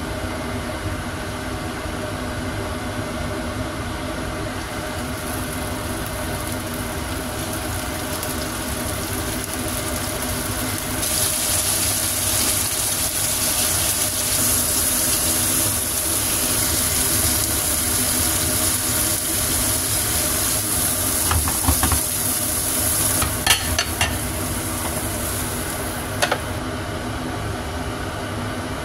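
Cubes of tofu sizzling as they shallow-fry in oil in a non-stick frying pan. The sizzle comes up strongly about eleven seconds in and stops suddenly a couple of seconds before the end, with a few sharp clicks near the end. A steady mechanical hum runs underneath.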